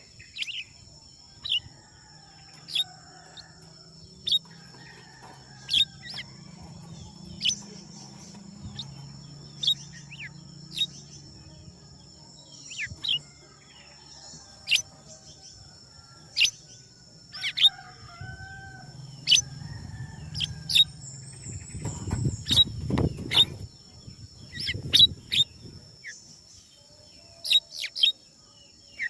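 A bird giving short, sharp chirps, about one every second or two, over a steady high-pitched drone, with a spell of louder low rustling about three-quarters of the way through.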